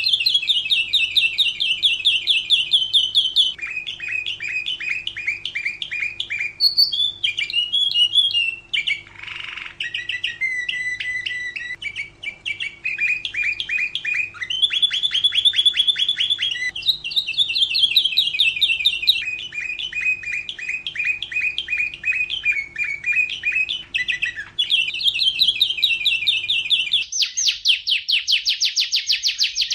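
Domestic canary singing a long song of rapid trills: each phrase is a fast run of repeated notes, and the pitch and tempo change every couple of seconds. Near the end a faster, higher trill starts abruptly. A faint steady hum lies under most of the song.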